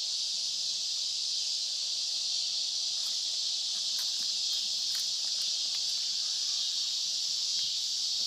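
Steady chorus of insects, a continuous high-pitched drone, with a few faint clicks about three to five seconds in.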